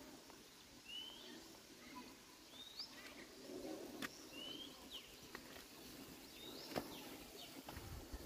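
A bird calling again and again, faint short rising chirps every second or two, with two sharp clicks in between.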